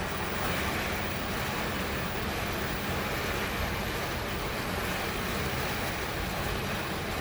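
Steady rushing noise of wind and sea, heard from a cruise ship's balcony as a storm comes in.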